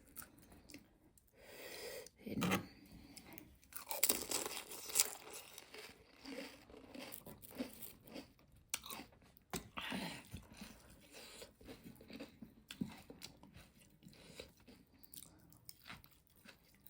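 Pani puri being eaten: crisp puri shells cracking and crunching between the teeth, with irregular chewing. Several louder crunches come in the first third and again about ten seconds in.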